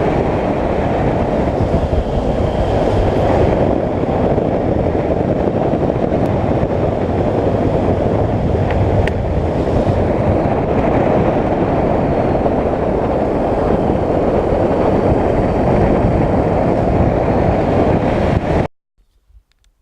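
Steady wind and road noise from a motorcycle cruising at speed, with a faint engine hum underneath. It cuts off suddenly near the end.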